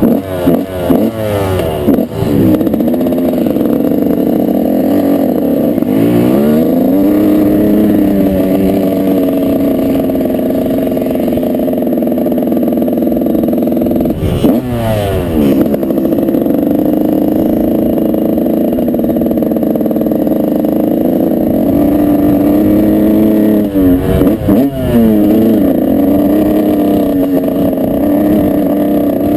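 Dirt bike engine running hard under throttle, holding a steady high pitch, with the revs dropping and climbing back sharply four times as the throttle is chopped and reopened or the gears change.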